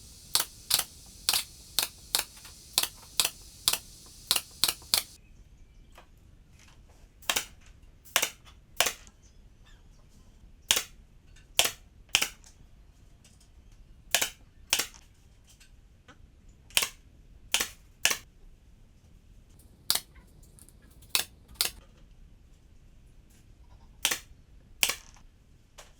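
A series of sharp clicks at irregular intervals, often in close pairs. In the first five seconds they come faster, about two a second, over a high hiss.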